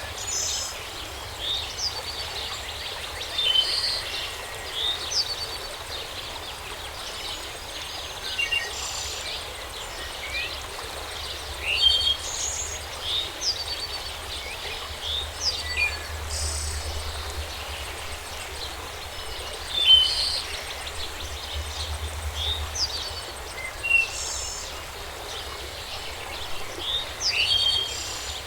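Songbirds chirping in short, quick calls and brief rising and falling notes, several every few seconds, over a steady outdoor background hiss.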